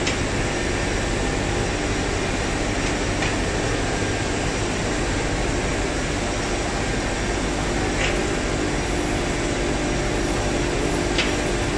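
Steady, loud machinery drone with a low hum, broken by a few faint clicks.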